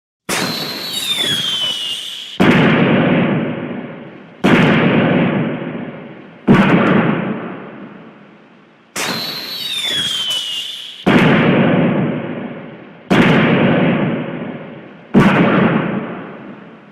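Fireworks sound effect: a whistling rocket launch falling in pitch, then three loud booms about two seconds apart, each fading away. The whole sequence then repeats, whistle and three booms again.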